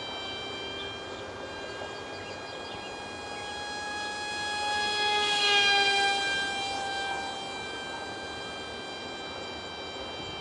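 High-pitched whine of a tiny direct-drive 8 mm electric motor and propeller on an ultra micro RC foam jet in flight. It grows louder to a close pass about halfway through, its pitch dropping slightly as it goes by, then steadies at a lower level.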